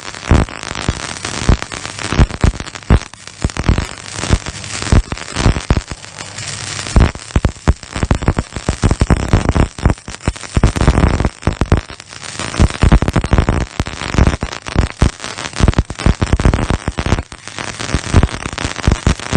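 XS 350 MIG welder welding: the arc crackles and sputters in a dense, irregular stream of sharp pops with no break.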